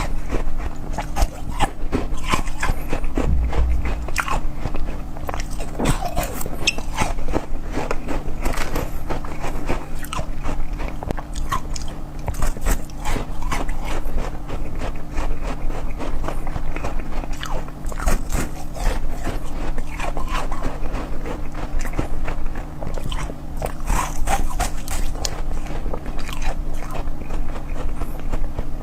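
Close-miked ASMR eating: continual biting and chewing with crunching, made of dense, irregular small clicks and crackles.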